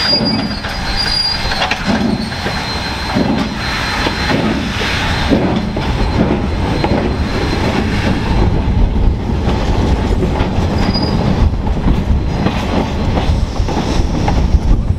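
Train running on the rails with a continuous rumble and wheel clatter, growing slightly louder. A thin, high wheel squeal sounds briefly at the start and again about two-thirds of the way through.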